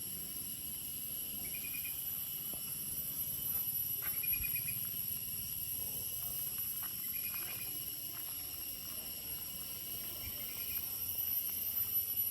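Steady high-pitched insect chorus, with a short chirping trill repeating about every three seconds.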